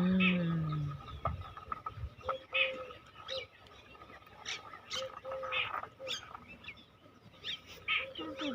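Birds chirping in short, repeated calls, with a brief human vocal sound in the first second.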